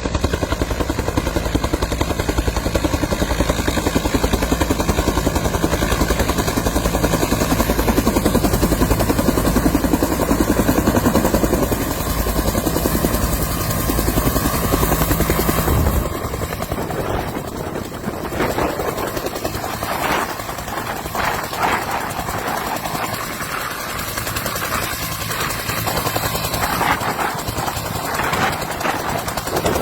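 Military helicopter running close by, a loud steady rotor beat and engine rumble. About halfway through, the sound changes abruptly to a lighter, thinner helicopter noise.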